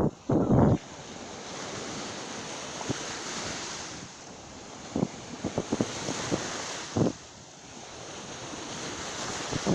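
Sea surf washing steadily under wind, with the wind buffeting the microphone in short low gusts, loudest about half a second in and again in a run of gusts around five to seven seconds.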